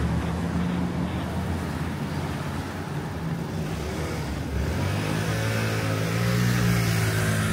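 Street traffic: a motor vehicle's engine gives a steady low hum that grows louder about five seconds in.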